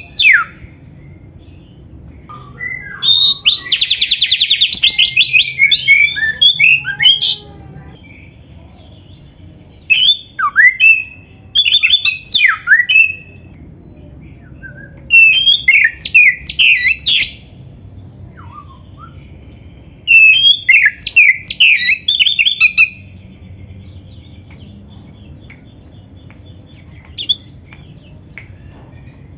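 Oriental magpie-robin (kacer) singing loud, varied song phrases of whistles, slurs and rapid trills in bursts of a few seconds with short pauses between. A long, fast buzzy trill comes about three seconds in, and there is a faint low hum underneath.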